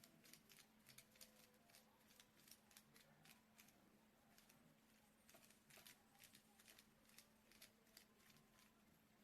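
Faint, irregular ticking and tapping of a paintbrush dabbing paint onto bubble wrap, with a low steady hum underneath.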